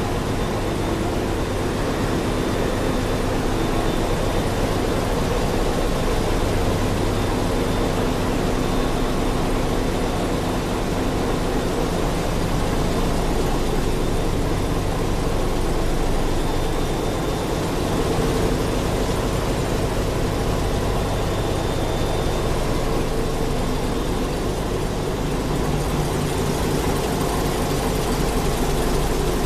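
Ship's engine room machinery running steadily: a loud, unbroken din with a low hum and a faint high whine.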